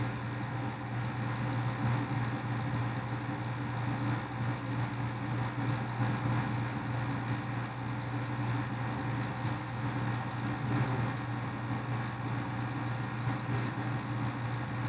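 A steady low motor hum over a constant wash of background noise.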